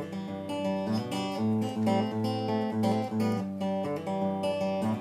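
Acoustic guitar strummed and picked, a steady rhythm of chords between sung lines.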